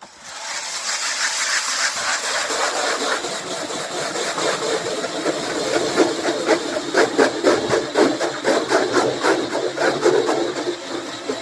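StrikeMaster 8-inch electric ice auger drilling through lake ice, cutting a second hole that overlaps the first. The motor spins up in the first second and then runs steadily as the blades grind the ice, with a rapid chatter through the second half.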